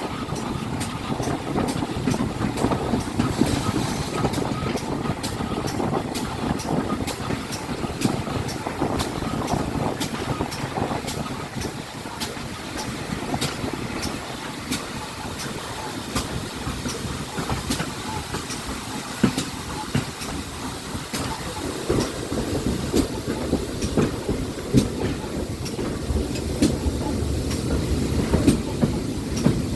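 Steam-hauled train running along the line: a steady rumble with frequent sharp clicks of the wheels over the rails.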